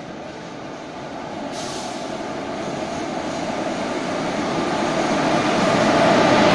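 WAP-4 electric locomotive and its passenger coaches approaching along the platform and running past, a rumble and rail noise that grows steadily louder, with a higher hiss coming in about a second and a half in.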